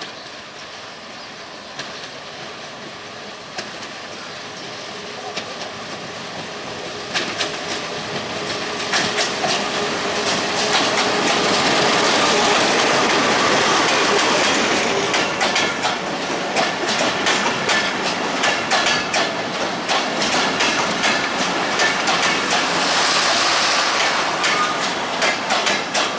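Diesel-hauled express train approaching and passing at speed: a Bombardier MX624 diesel-electric locomotive and its carriages. The noise grows louder over the first ten seconds, then stays loud with rapid clickety-clack of wheels over the rail joints.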